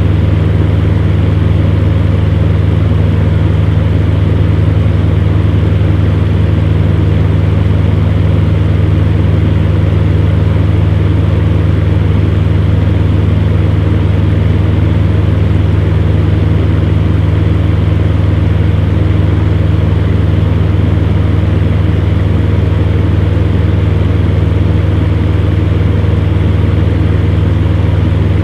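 Electric fan heater running steadily: a constant low hum under an even rush of air.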